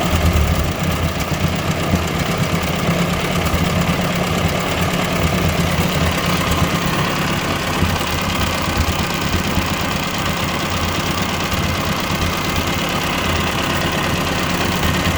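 1957 Ford 841 tractor's gasoline engine idling steadily on a newly fitted replacement carburetor; it runs evenly, a sign that the carburetor works.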